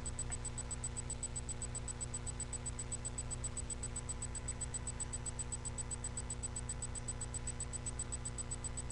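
Steady electrical hum and hiss with a faint high-pitched whine that pulses several times a second, the self-noise of a webcam's microphone.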